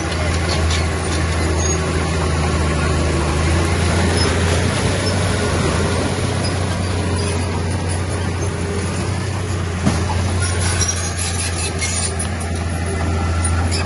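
Heavy earthmoving machinery's diesel engine running steadily with a deep hum. There is a sharp click about ten seconds in, then scattered high clicks and squeaks near the end.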